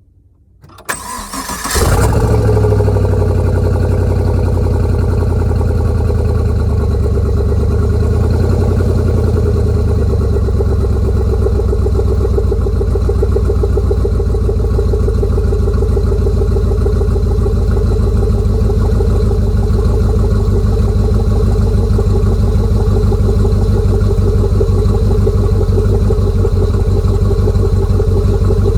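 V8 engine swapped into a 2000 Porsche Carrera starting about a second in and catching almost at once, then idling steadily and loudly.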